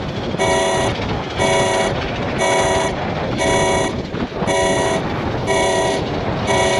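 A pulsing alarm horn sounding a blast about once a second, seven times, each blast a steady chord of several tones, over a continuous rushing noise.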